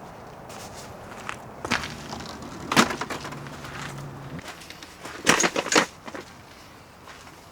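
A few sharp knocks and clatters, the loudest a quick cluster about five seconds in, over a faint steady background hiss.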